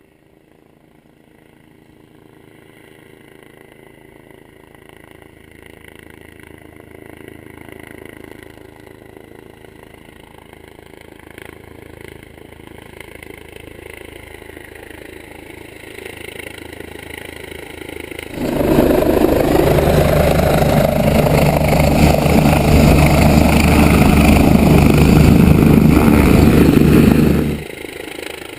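A helicopter's engine and rotors grow steadily louder as it approaches. About two-thirds of the way through, the sound jumps suddenly to a much louder, dense rush of noise that lasts about nine seconds, then drops off abruptly near the end.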